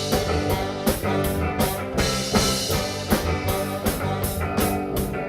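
Live rock band playing an instrumental passage between vocal lines: drum kit keeping a steady beat under electric guitar and bass.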